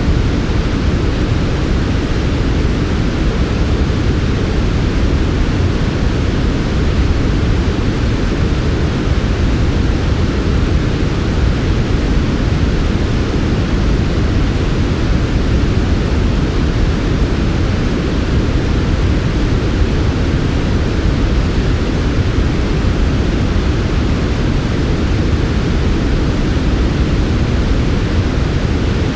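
Steady synthetic white noise: an even, unchanging rush, heaviest in the low end with a softer hiss above.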